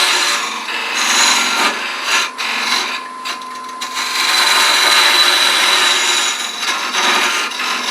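A parting tool cuts into a spinning wooden spindle on a wood lathe, making a continuous scraping hiss over a steady whine. The cut eases off briefly a few seconds in, then comes back.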